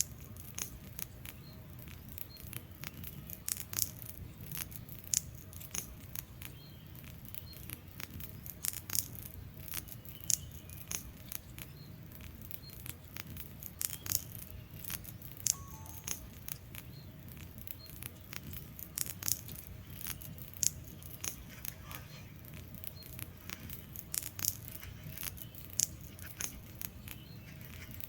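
Wood fire burning in a fireplace: irregular crackles and sharp snaps and pops from the logs, several a second, over a low steady rumble of the flames.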